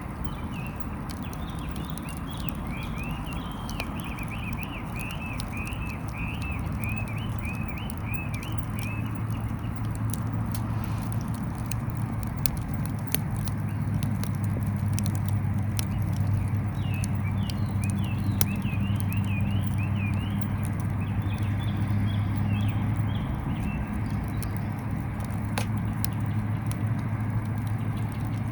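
Wood fire crackling in a small steel fire grill, with sharp pops scattered throughout. A bird calls twice in rapid runs of short, high notes, and a low steady hum comes in about a quarter of the way through.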